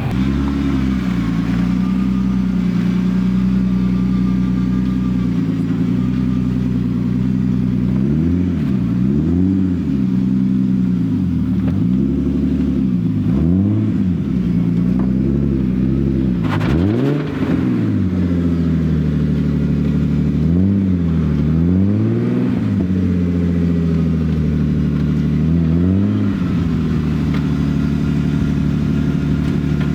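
A motor vehicle engine running steadily, its pitch dropping and rising again several times as it is revved or driven through the gears.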